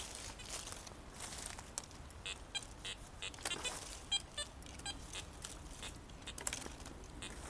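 Rustling and scraping in dry forest litter with scattered sharp clicks. A run of short, high pitched beeps comes about two to four and a half seconds in.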